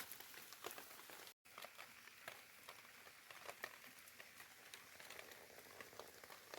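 Faint rain pattering, an even hiss with scattered small ticks of drops, cut off for an instant about a second and a half in.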